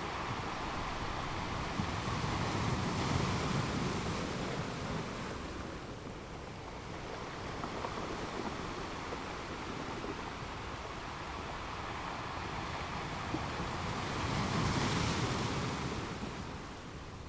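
Ocean surf: a steady wash of waves, swelling louder about three seconds in and again near the end, then falling back.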